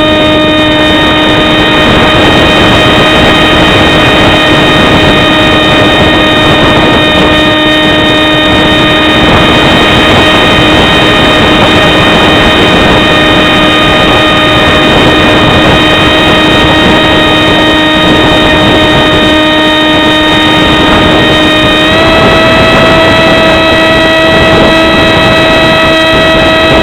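A scratch-built SU-37 model aircraft's motor running with a steady whine, over heavy wind noise on the microphone. Its pitch steps up a little about four-fifths of the way through.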